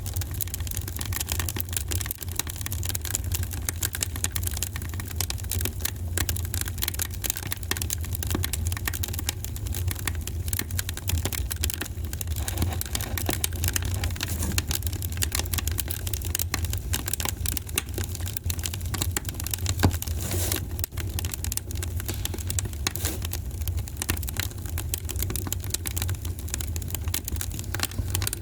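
Wood fire burning in a fireplace, crackling with many small irregular pops over a steady low rumble, and one louder pop about twenty seconds in.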